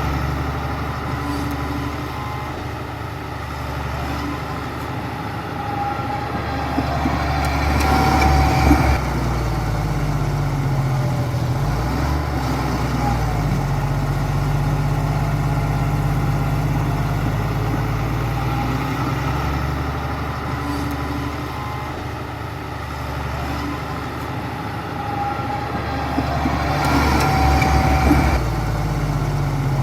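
Bulldozer's diesel engine running steadily, swelling louder twice, about eight seconds in and again near the end.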